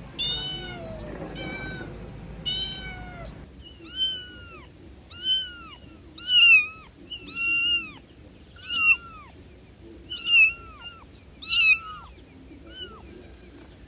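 Kittens meowing: two long, drawn-out meows that fall in pitch, then a run of about seven shorter, higher meows that rise and fall, roughly one a second.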